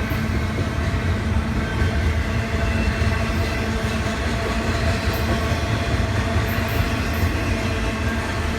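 Intermodal freight train rolling past steadily: a loud, even rumble of wheels on rail with some held tones and a few light clicks.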